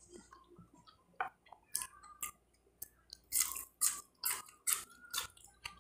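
Close-miked chewing of a mouthful of food: a string of short wet smacks and clicks of the mouth, coming thicker in the second half.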